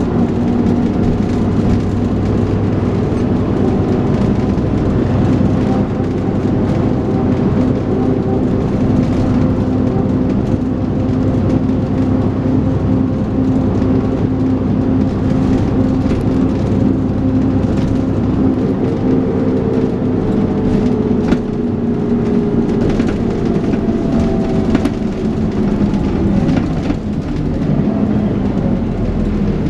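Dennis Trident 2 double-decker bus under way, its engine drone steady with a hoover-like whine. Around two-thirds through, the whine slowly falls in pitch as the bus eases off, with a brief dip in loudness near the end.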